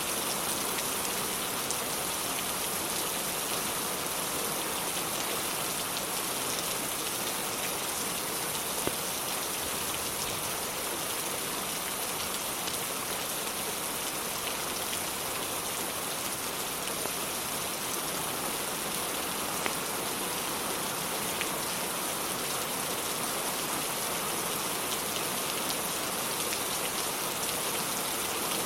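Steady rain falling as an even hiss, with a few faint crackles from a wood fire, a couple of them louder, about nine and twenty seconds in.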